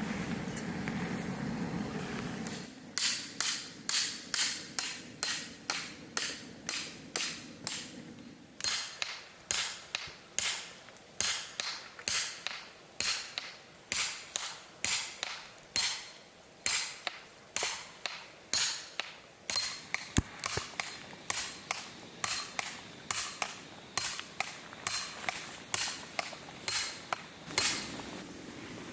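A long series of sharp knocks or strikes, about two a second, starting about three seconds in and going on until near the end.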